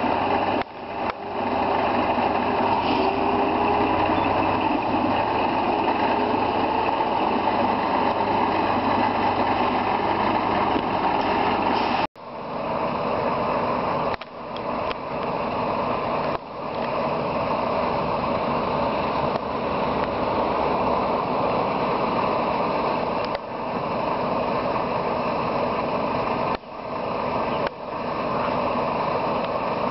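Heavy engine running steadily, with several brief sudden dropouts in the sound.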